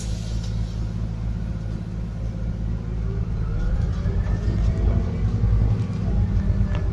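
Scania N280UD biogas bus engine heard from inside the double-decker's cabin as a steady low drone, with a whine that rises in pitch from about three seconds in as the bus picks up speed.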